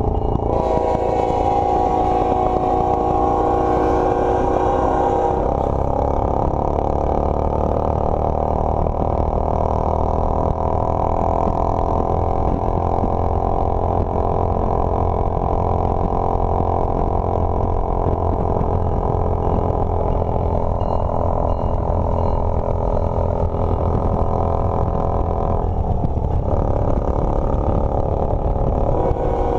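Motorcycle engine running steadily while riding, its note drifting slowly up and down, with a heavy low rumble of wind on the microphone.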